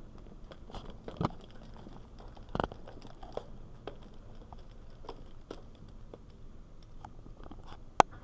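Irregular small clicks and taps at close range, with a few louder knocks and one sharp click near the end.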